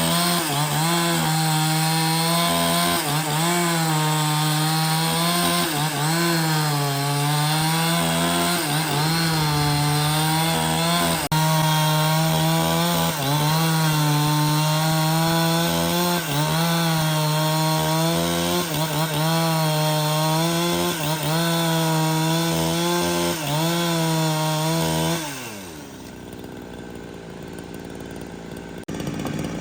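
Chainsaw running at full throttle through wood, its pitch dipping briefly every couple of seconds as the chain loads up in the cut. About 25 seconds in it winds down and the sound drops away.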